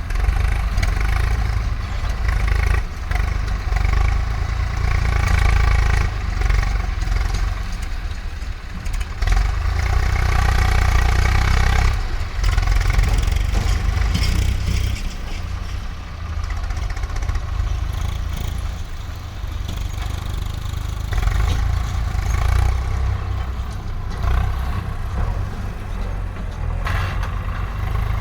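Heavy diesel machinery engine running and working under varying load. Its level swells and falls over stretches of a few seconds.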